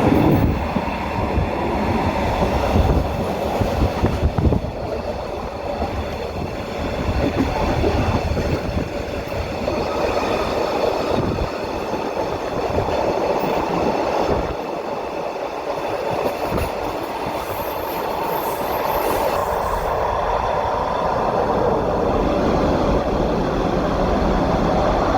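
Train running through a rail tunnel: a steady rumble with clatter from the wheels on the rails.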